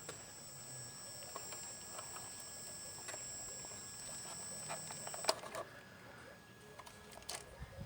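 Steady high-pitched electric whine from a radio-controlled model's motor drive, with small clicks and knocks. The whine cuts off with a click about five seconds in.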